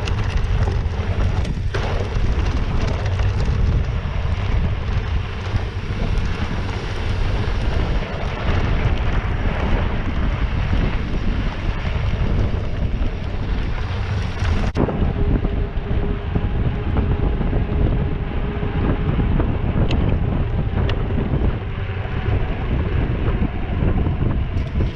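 Heavy wind noise buffeting the microphone, loud and steady. About fifteen seconds in it changes abruptly to a duller rumble with a few faint steady tones.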